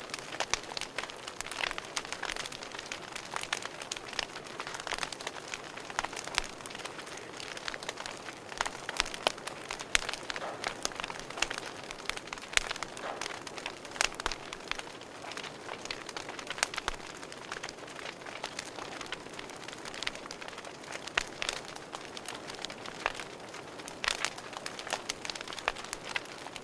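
Wood fire crackling in a fireplace: a steady soft hiss of burning with frequent irregular sharp pops and snaps.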